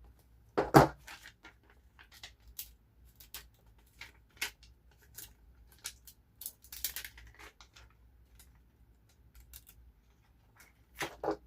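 Paper and sticker-sheet handling: light rustles, crinkles and taps, with a loud knock about a second in and another near the end.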